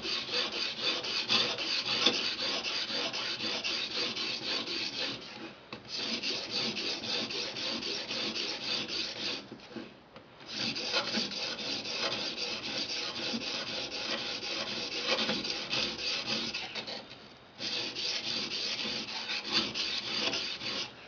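A 220-grit Edge Pro Apex sharpening stone stroked back and forth along the edge of a Cold Steel Recon Tanto, a continuous scraping rasp. It runs in three long bouts with brief pauses about 6 and 10 seconds in and again near 17 seconds. This is the second side of the factory edge being sharpened at about a 20-degree angle, without reprofiling.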